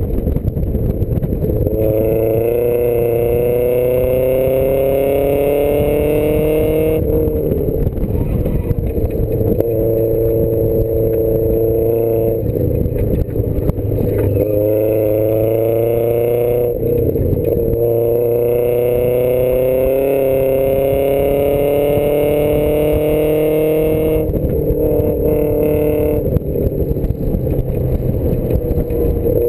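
Triumph sports car's engine heard from inside the cabin, driven hard: its pitch climbs under throttle five times, each climb broken off by a sudden drop as the driver lifts or shifts.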